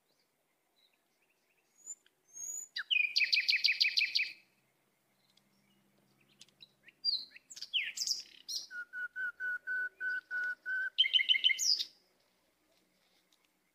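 Songbird singing in separate phrases: a fast trill, then a few sliding chirps, a run of about eight evenly spaced notes on one pitch, and another short trill near the end.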